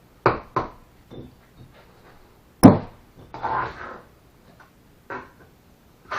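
Bricklaying work: sharp knocks of bricks being tapped down into mortar, two quick ones near the start and the loudest about two and a half seconds in, with a short scrape of a trowel through mortar and a few lighter taps.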